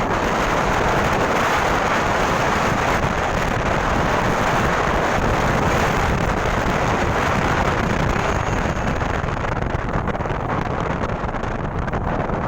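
Wind rushing over the microphone on a moving motorcycle, a steady loud noise without any clear engine note.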